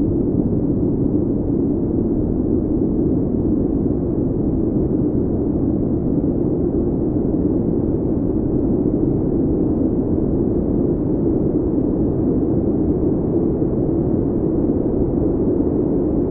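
Steady, low wind of a snowstorm: a constant dull rush with no gusts, breaks or sudden sounds.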